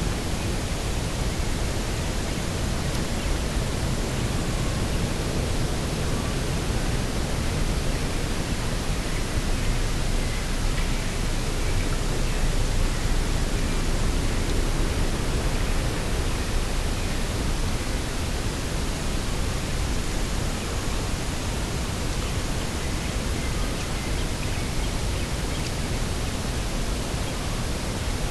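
Steady wind outdoors: an even, unbroken rush with most of its weight in the low end.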